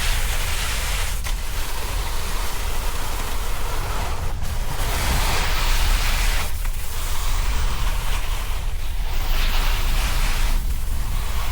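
Wind buffeting the action-camera microphone during a snowboard run, over the hiss of the board sliding and scraping on snow; the hiss swells and eases every couple of seconds.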